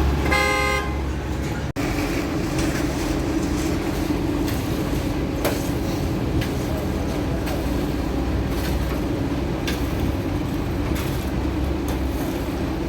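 A vehicle horn toots once, briefly, at the start, then a large engine runs steadily.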